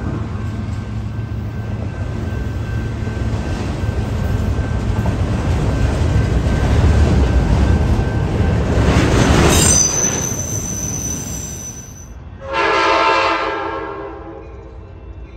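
Union Pacific auto train's autorack cars rolling past with a steady rumble of wheels on rail, loudest about nine seconds in. Then, about twelve and a half seconds in, an approaching Amtrak Capitol Corridor locomotive sounds its horn once, a chord of several tones held for about two seconds before fading.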